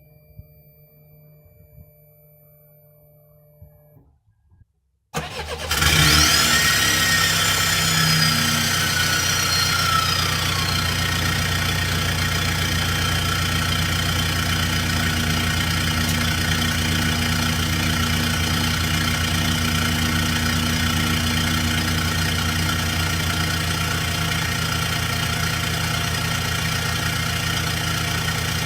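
Straight-piped Peugeot 406 Coupé 2.2 HDi four-cylinder turbodiesel on a cold start: faint steady whining tones, a short silence, then about five seconds in the engine catches with a brief flare. A whistle falls away over the next few seconds as it settles into a steady, loud idle.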